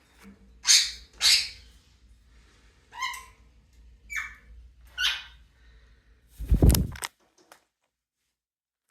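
Pet parrots calling: a series of short squawks and chirps, one falling in pitch. About six and a half seconds in comes a loud, brief rustling noise.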